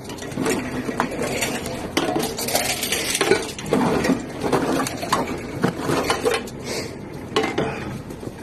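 Empty drink bottles and cans clinking and rattling together as they are handled in a bag, a dense run of small knocks and clinks.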